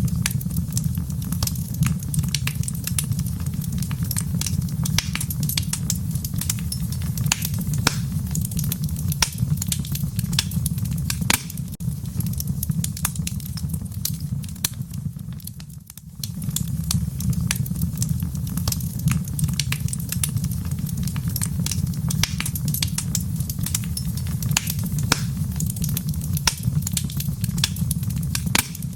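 Wood fire crackling, with frequent sharp pops and snaps of varying strength over a steady low rumble. The sound fades down a little past the middle, then comes back abruptly.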